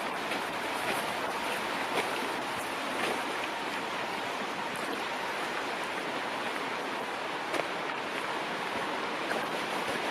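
Steady rushing of flowing stream water, with a few light ticks over it, about two seconds in and near eight seconds.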